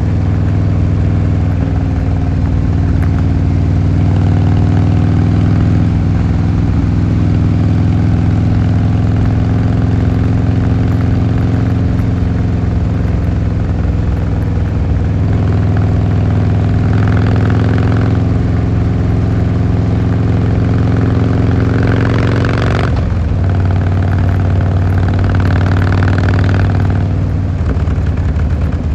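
Harley-Davidson Fat Boy Lo's V-twin engine and exhaust running with a steady, loud note. About 23 seconds in, the note dips sharply, then settles again at a lower pitch.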